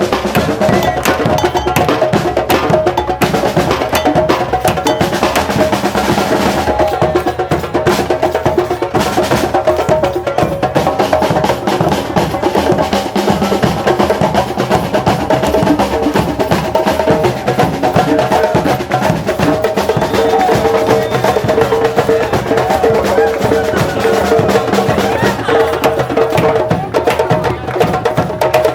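Drum circle: many hand drums and other percussion played together in a fast, dense rhythm, with a held pitched tone over the drumming.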